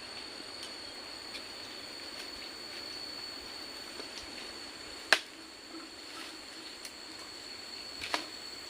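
Forest ambience: a steady high-pitched whine over a soft even hiss, broken by two sharp knocks, a loud one about five seconds in and a smaller one about eight seconds in.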